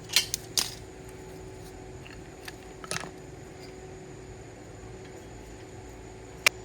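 Sharp metallic clinks: three in quick succession in the first second, a couple more around three seconds in, and one loud sharp click near the end, over a faint steady hum.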